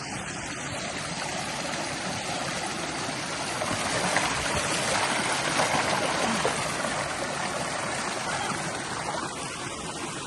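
Steady rushing of running water, like a small stream, swelling slightly in the middle.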